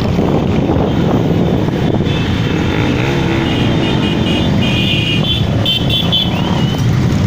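Motorcycle engines running in a steady, continuous rumble, with a few short high-pitched tones over it in the middle.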